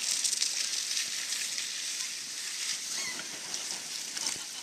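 Water and a body skidding over the wet vinyl of an inflatable water slide: a steady hiss.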